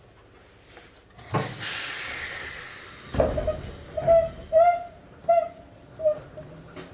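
Inside a Series 3000 electric train car: a sudden hiss of compressed air about a second in, fading out, then a heavy thud, typical of the pneumatic doors closing. A run of short squeaks follows.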